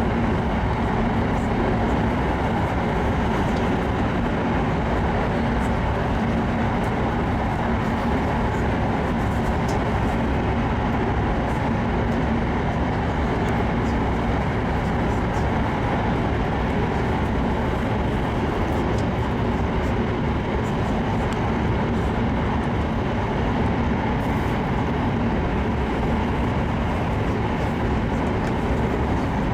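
E7 series Shinkansen running at speed, heard from inside the passenger cabin: a steady rumble of rolling and running noise with a faint low hum, unchanging throughout.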